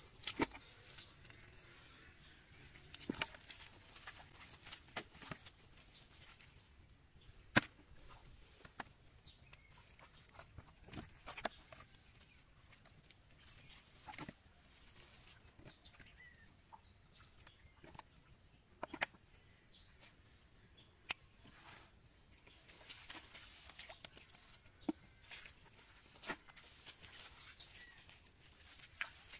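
A bird calling over and over with short, high, down-slurred chirps about once a second, against a quiet outdoor background. Scattered sharp clicks and taps, irregular and sometimes louder than the chirps, come and go throughout.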